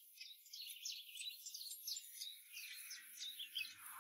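Faint twittering of small birds: many short, high chirps in quick succession.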